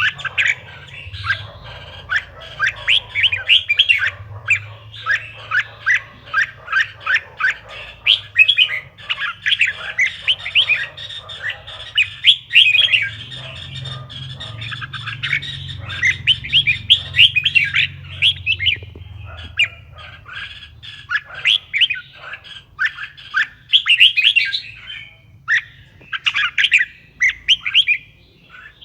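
Red-whiskered bulbul song: a rapid, near-continuous run of short, sharp chirping notes, with a steady low hum underneath.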